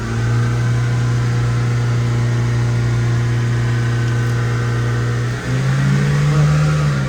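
LDV G10 engine held at raised revs with a steady note; about five and a half seconds in it dips briefly, then revs higher and holds until near the end.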